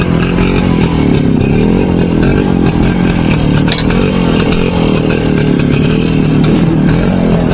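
Motorcycle engine running steadily, its pitch rising and falling a little as the revs vary.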